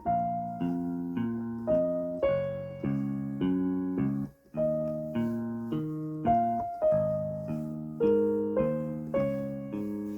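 Yamaha PSR-E373 portable keyboard playing a slow melody in its concert grand piano voice over a repeated low chord accompaniment from a split voice, a new note about every half second. The sound breaks off briefly a little after four seconds in, then the playing resumes.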